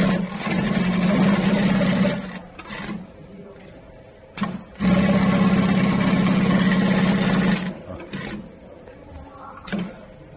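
Direct-drive 48-inch long-arm compound-feed walking-foot industrial lockstitch sewing machine stitching in two runs, about two and three seconds long. There is a brief start-up burst just before the second run and a short click near the end.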